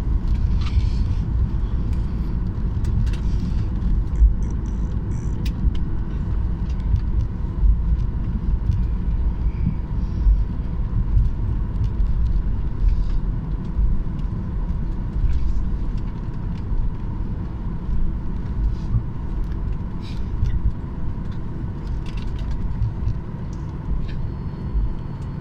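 Airliner cabin noise just after landing: a steady low rumble from the plane rolling on the ground, with a faint steady tone and a few small clicks, easing slightly near the end.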